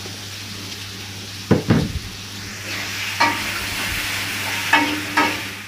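Food frying with a steady sizzle in a metal wok, with a metal spatula scraping and knocking against the wok several times as it is stirred.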